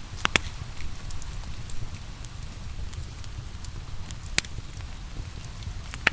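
Wood fire crackling in a fireplace over a steady low rumble, with sharp pops twice about a third of a second in, once just after four seconds and once near the end. Steady rain runs underneath.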